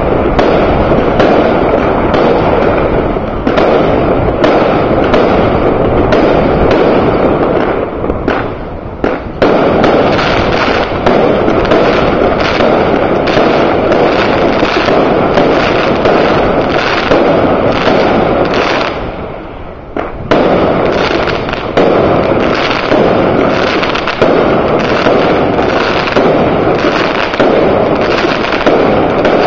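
New Year fireworks going off in a dense, rapid string of bangs and crackles, with two short lulls, about eight and about nineteen seconds in.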